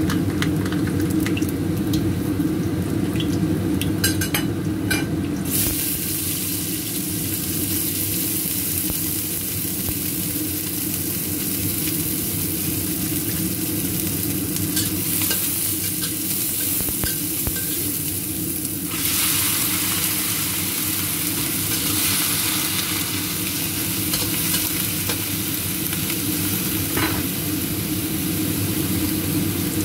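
Garlic, vegetables and crab sizzling and being stirred in hot oil in a stainless steel wok, with a few light clicks in the first seconds; the sizzle grows louder about five seconds in and again about 19 seconds in. A steady low hum runs underneath.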